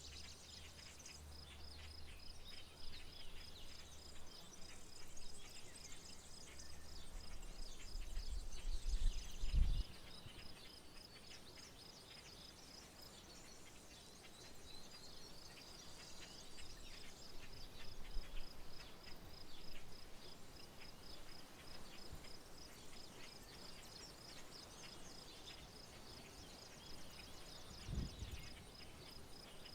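Rural outdoor ambience: a steady high trill that pulses rapidly and evenly throughout, with scattered high bird chirps over it. A low rumble swells over the first ten seconds and cuts off abruptly, and there is a brief low thump near the end.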